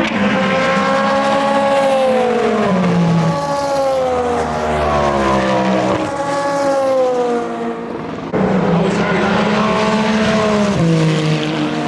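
Endurance race cars at speed, their engines howling in notes that sweep down and up as they pass. There is a short dip and an abrupt change about eight seconds in, followed by another engine note that falls near the end.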